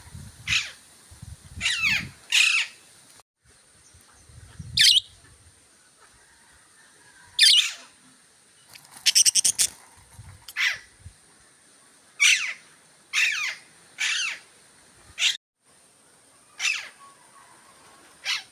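Budgerigar giving short, sharp chirping calls, about a dozen spaced a second or so apart, with a quick rattling run of calls about nine seconds in. A few soft low thumps sound in the first five seconds.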